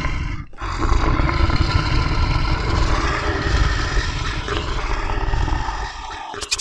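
An animal roar sound effect: a long, rough, low roar that starts about half a second in after a brief break and lasts about five seconds.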